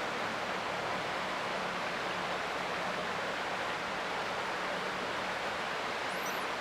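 Creek water flowing, a steady, even rushing hiss. A faint low hum sits underneath, and a brief faint high chirp comes near the end.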